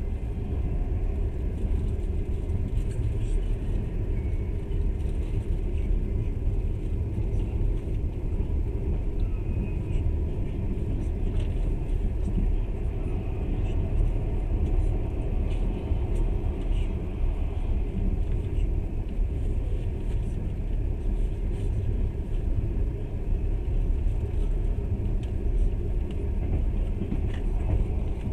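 Steady rumble of a moving passenger train, its wheels running on the rails, with a few faint ticks scattered through it.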